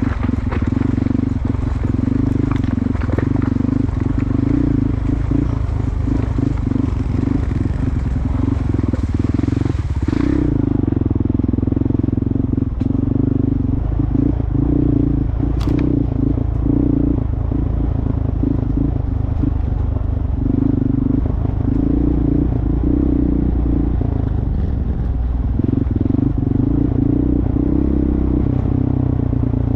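Dual-sport motorcycle running steadily while being ridden, a constant engine drone.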